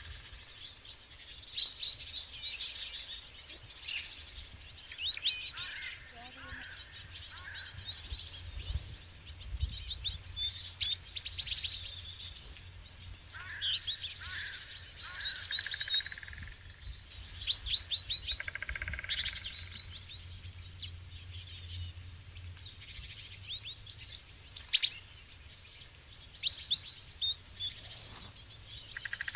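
Birds chirping and calling, with many quick high chirps and trills coming in clusters and a few louder single calls, over a faint steady low hum.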